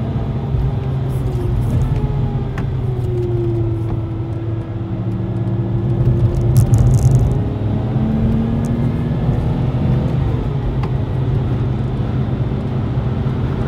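Supercharged Lexus IS200 straight-six heard from inside the cabin at track speed, under road and tyre noise. The engine note drops a few seconds in and climbs again just past the middle as the car slows for a bend and pulls out of it, with a short louder rush of noise about halfway through.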